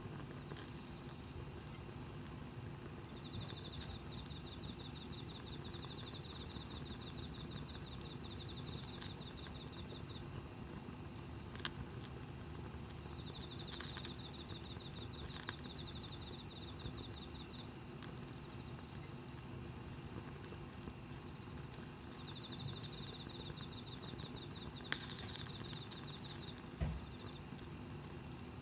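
Night insects singing: a high song repeating in phrases about every two seconds, and a lower pulsing trill that comes and goes for a few seconds at a time. A few sharp crackles from the campfire stand out over a low steady hiss.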